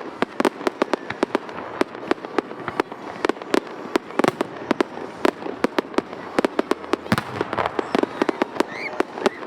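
Aerial fireworks show: shells bursting in rapid, irregular sharp bangs, several a second, over a steady background of noise between the reports.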